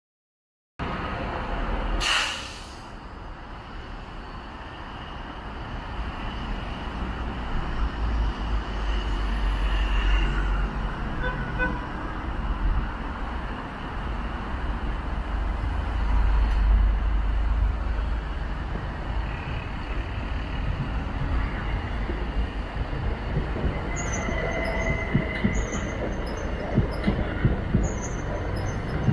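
Southeastern Class 375 electric multiple unit approaching with a low rumble, then running past with repeated sharp clicks of wheels over rail joints and points and a faint wheel squeal in the last few seconds. A brief loud burst of noise comes about two seconds in.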